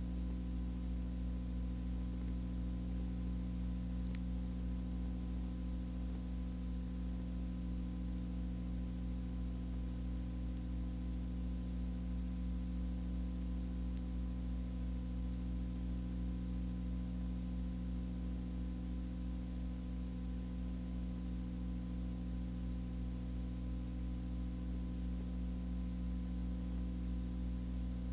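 Steady low electrical hum with constant hiss, unchanging throughout.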